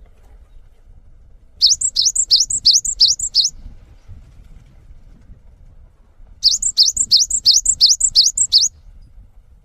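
Songbird calling: two bursts of about nine quick, high chirps each, separated by a few seconds of quiet.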